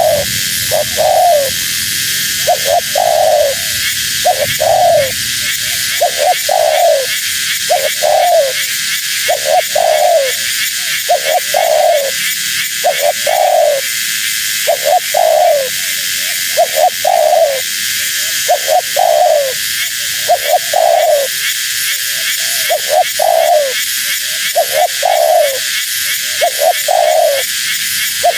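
Female spotted dove (tekukur) cooing over and over: short notes that slide down in pitch, delivered in twos and threes with brief pauses between groups. A steady high hiss runs behind the calls.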